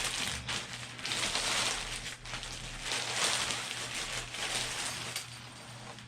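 Plastic bag crinkling and rustling in irregular swells as a heavy replica belt is worked out of it.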